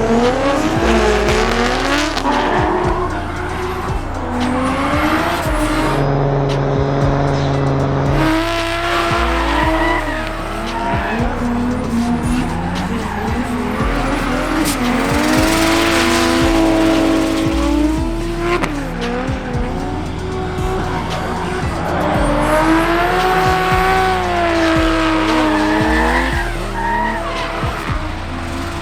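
A car engine revving up and down, with tyres squealing, over background music with a stepping bassline.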